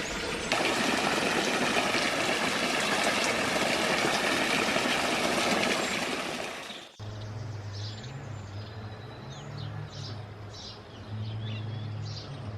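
A steady rushing noise for about seven seconds, then it cuts off abruptly. Birds chirp over a low, steady hum after that.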